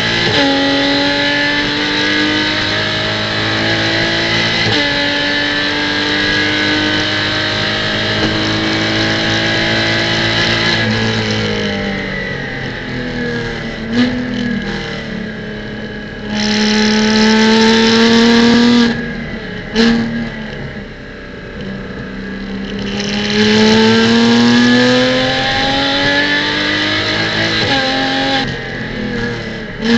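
Porsche Cayman GT4 Clubsport's flat-six engine heard on board at racing pace: it climbs in pitch through the gears with sudden drops at the upshifts, then falls away under braking with sharp throttle blips on the downshifts. It pulls hard twice more, loud and rising, in the second half.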